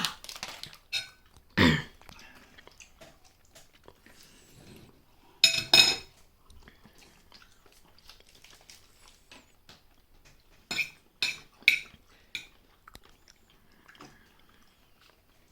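People eating noodles: quiet chewing and slurping, broken by a few short sharp clinks of utensils against a bowl, including a quick run of four near the end.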